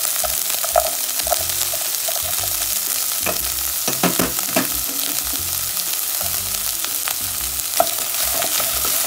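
Onion, garlic and corn sizzling steadily in butter and oil in a frying pan, with scattered clicks and knocks as blanched almonds go in and a wooden spatula stirs near the end.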